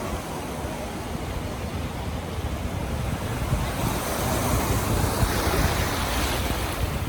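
Ocean surf washing on the beach, with wind rumbling on the microphone. A wave's wash swells about halfway through and then eases.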